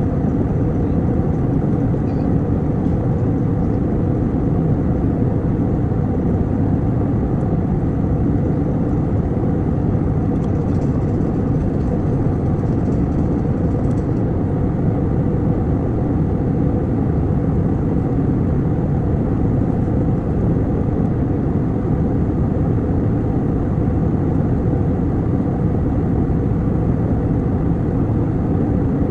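Airliner cabin noise in flight: a steady, low drone of engines and airflow that holds unchanged throughout.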